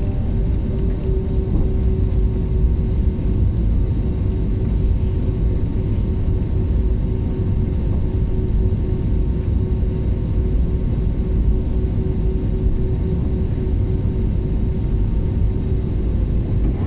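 Airliner cabin noise from a passenger seat: the engines and airframe make a steady low rumble with a steady droning tone, as the aircraft moves along after landing.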